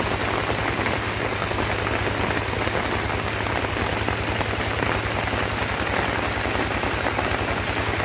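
Heavy rain falling steadily, with a rice-field walking tractor's engine running at an even low beat underneath.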